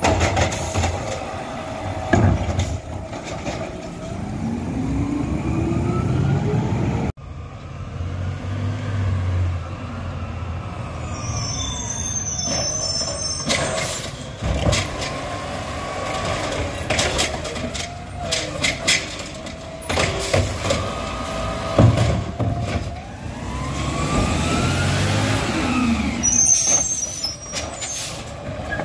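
Garbage truck working: its diesel engine revs up and down, with repeated clanks and knocks. Two brief high squeals come through, one partway through and one near the end.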